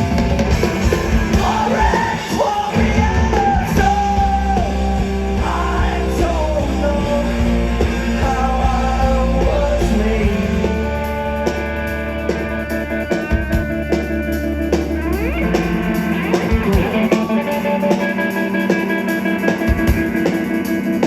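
Live rock band playing a song loud, with a singer over guitars, bass and drums. Past the middle the heavy low end drops away for a few seconds, leaving guitar and drum hits.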